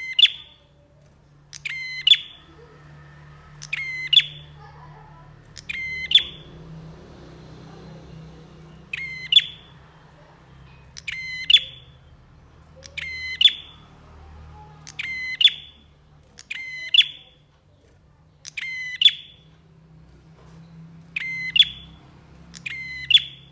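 Prinia (prenjak) calling: a short, loud burst of sharp high notes repeated about every two seconds, over a faint low hum.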